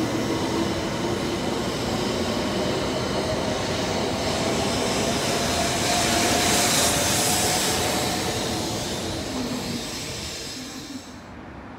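Shinkansen train running past with a loud rushing noise that swells to a peak about six to seven seconds in, then fades. The sound drops off suddenly near the end.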